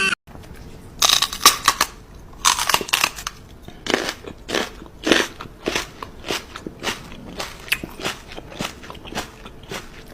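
A cat chewing something crunchy: dense clusters of crunches at first, then a steady run of single bites about two a second.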